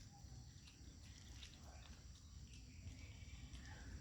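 Near silence: faint background rumble with a steady high hiss and a few faint ticks.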